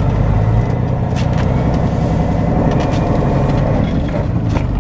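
Semi truck's diesel engine running steadily as the truck moves, heard from inside the cab, with a couple of short knocks or rattles about a second in and near the end.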